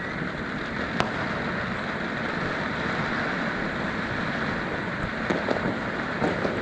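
Fireworks going off: a steady hissing spray, a single sharp bang about a second in, and crackling pops near the end.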